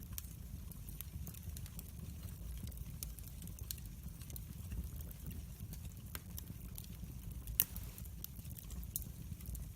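Wood fire burning in a fireplace: a low steady rumble of flames with scattered crackles and pops, the loudest pop about three-quarters of the way through.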